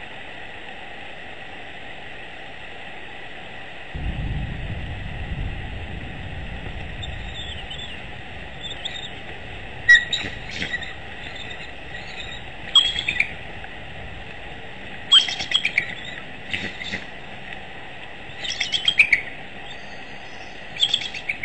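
Birds chirping in short, sharp bursts every two to three seconds over a steady hiss. A low rumble starts suddenly about four seconds in and fades over a few seconds.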